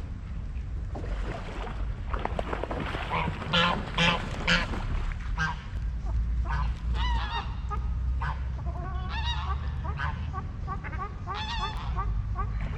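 A flock of geese honking, many short calls overlapping, loudest about four seconds in, over a steady low rumble.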